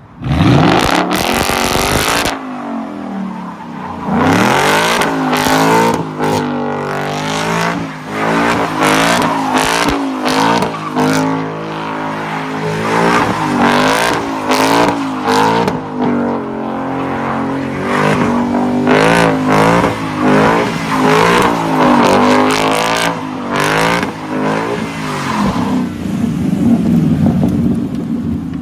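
Ford Mustang 5.0 Coyote V8 with resonator and muffler delete, revved hard in repeated surges that rise and fall in pitch as the car spins donuts, its rear tires spinning and screeching against the pavement. The engine bursts in suddenly at full volume right at the start.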